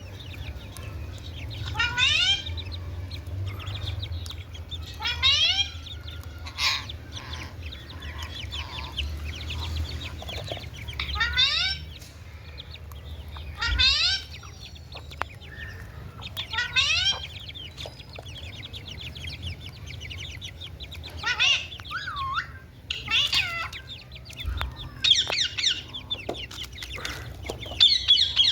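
A parrot calling in short, rising squawks, about one every two to three seconds, over a steady low hum.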